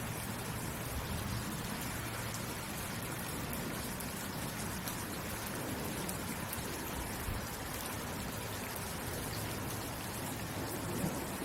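Steady rainfall, with scattered drops pattering on a surface.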